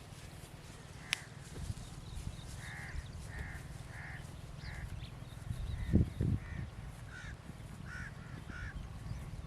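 A crow cawing, about nine short caws at roughly one every half second to second, starting about three seconds in. Under them runs a steady low rumble, with a sharp click about a second in and two low thumps about six seconds in, the loudest sounds here.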